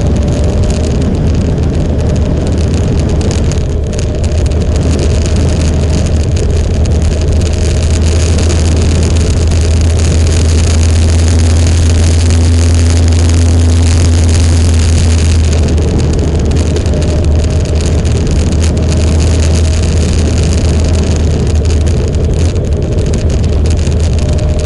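Motorcycle engine running at a steady cruise while riding, a constant low drone under heavy rushing wind noise on the microphone.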